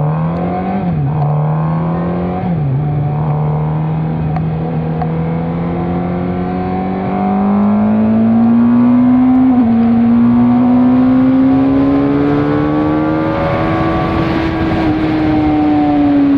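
Suzuki GSX-R track bike's inline-four engine being ridden hard. Two quick upshifts about one and three seconds in, each a sudden drop in pitch, then a long pull with the revs climbing steadily, a slight dip near ten seconds, before the revs fall away as it eases off near the end.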